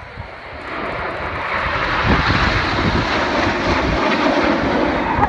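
BAE Hawk T1 jets of the Red Arrows flying past in close formation: jet engine noise swells over the first two seconds and stays loud.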